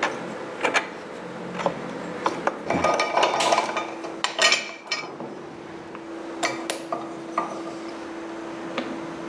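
Metal tools and motorcycle parts clinking, knocking and scraping in irregular bursts as a swing arm and rear suspension are dismantled, with a steady faint hum starting about three seconds in.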